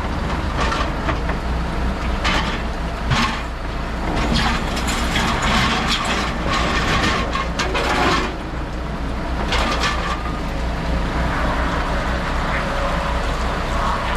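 Heavy diesel machinery running steadily at a demolition site, with repeated short bursts of clattering and scraping from debris being handled.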